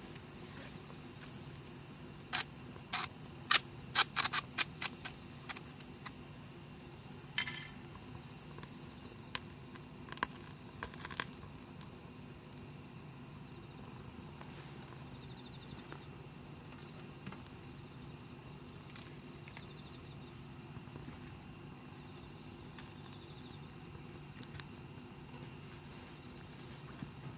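Wood fire crackling, with clusters of sharp pops a couple of seconds in and again around ten seconds in. Behind it, a steady high-pitched chirring of crickets that drops away about nine seconds in.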